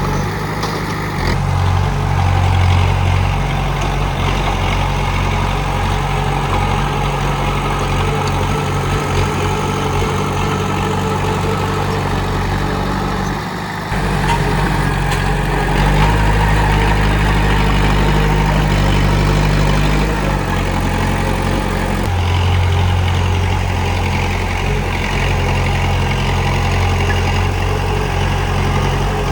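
Komatsu D31P crawler bulldozer's diesel engine running steadily, its low note shifting in pitch and loudness several times, with a short dip about halfway through.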